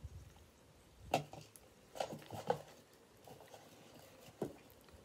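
Close-up chewing of a hamburger: a handful of short mouth clicks and smacks, several between about one and two and a half seconds in and one more near the end.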